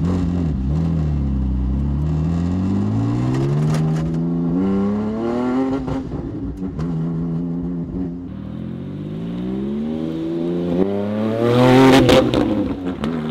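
Porsche 718 Cayman GT4's 4.0-litre flat-six engine accelerating hard: the revs climb, drop at each upshift, and climb again several times, heard from inside the cabin. Near the end it gets louder and rougher as the car passes by outside.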